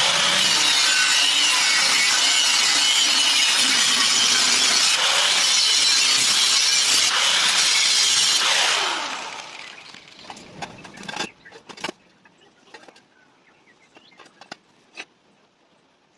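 A power tool running steadily under load for about eight seconds, then winding down, followed by a few light clicks and taps.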